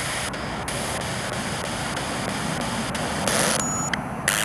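A spirit box sweeping through radio stations: steady static hiss, chopped at an even pace, with two louder bursts of static near the end.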